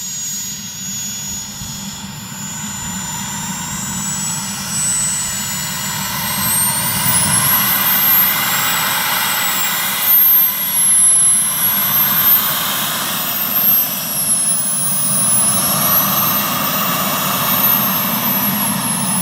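Turbine engine of a giant radio-control A-10 model jet running in flight, a high whine over a jet rush that swings up and down in pitch as the plane passes and turns, growing louder as it comes in to land.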